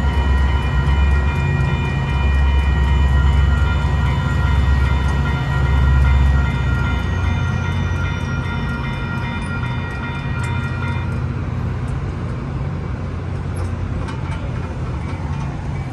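Metra commuter train passing close by with a heavy rumble that eases after about six seconds. Steady high tones sound over it and stop about eleven seconds in.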